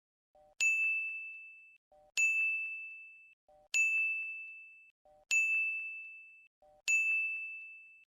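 A bright ding repeated five times, evenly about one and a half seconds apart. Each ding has a short soft blip just before it, then a single high bell-like tone that rings out and fades over about a second. The strikes are identical, as from an added sound effect.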